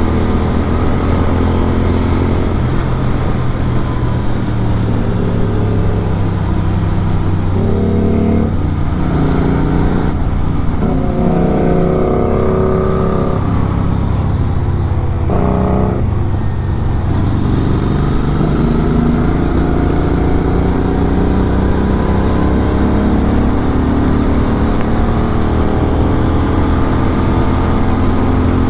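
Superbike with an SC-Project aftermarket exhaust running under way, its engine pitch rising and falling as it accelerates.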